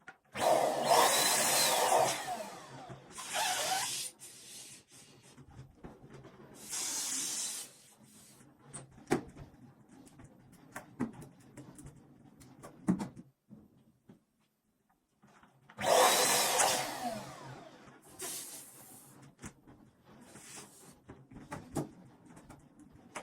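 Electric balloon inflator blowing in bursts of one to two seconds as latex balloons are filled, with gaps of several seconds between them. Small clicks and rubbing of the balloons being handled fill the gaps.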